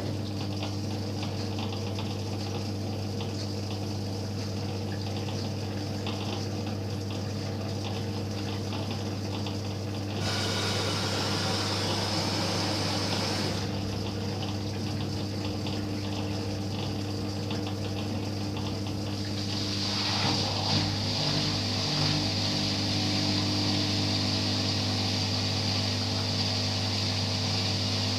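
LG washing machine at the start of its spin cycle: the drain pump hums steadily as water is pumped out, with a burst of gushing water about ten seconds in. About twenty seconds in, a higher whine joins the hum.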